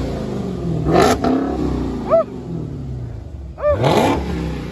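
Supercharged 6.2-litre Hemi V8 of a Dodge Hellcat with its resonators cut out, revved in blips. The engine falls back from a rev with a sharp crack about a second in, then revs up again near the end.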